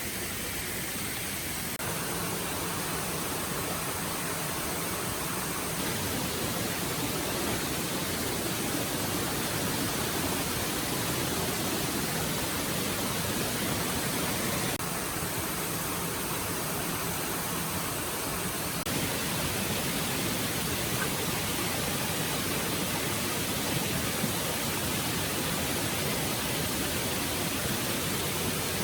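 Stream water flowing steadily, a continuous even rushing hiss.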